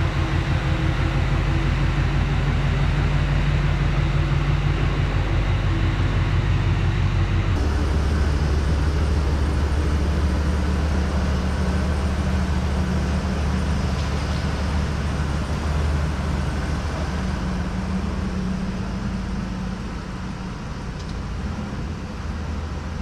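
A motor vehicle's engine running steadily with a low hum. Its tone shifts about seven and a half seconds in.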